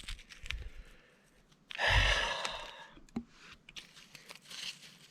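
Loose rock crunching and scraping, with a few sharp clicks of stone on stone and one louder gritty scrape about two seconds in.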